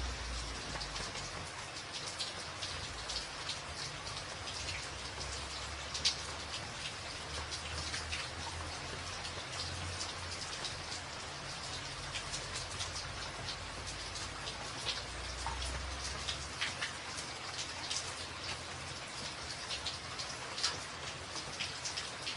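Steady rain on a tin roof, a dense hiss with many sharp individual drop ticks, a few of them louder. A low rumble comes and goes underneath.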